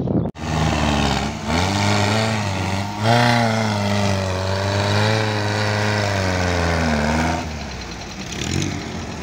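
Off-road vehicle's engine running and revving. It cuts in abruptly, climbs in pitch about three seconds in, holds there, and falls off again around seven seconds.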